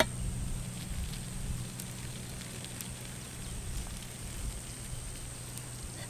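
Campfire crackling faintly, with occasional sharp pops, over a low steady hum.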